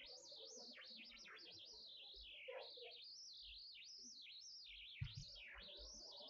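Faint birdsong: an unbroken run of high chirps and warbling whistles that swoop quickly up and down.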